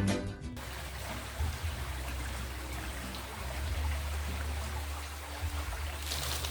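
River water flowing steadily, an even rushing hiss with a low rumble underneath. It follows the end of a music track about half a second in.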